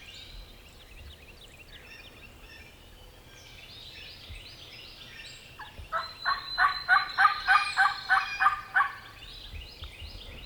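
A hunter's turkey call sounding a loud series of about ten yelps over three seconds, roughly three a second, meant to make a gobbler answer. Faint songbirds chirp throughout.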